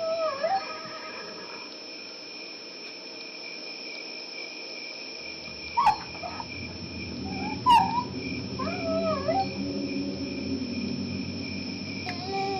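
Dogs whining and yelping in short, rising and falling cries over a steady chirping of crickets. About five seconds in, a low droning hum comes in and swells: the 'strange sky sound', which was synthesised in a music editor.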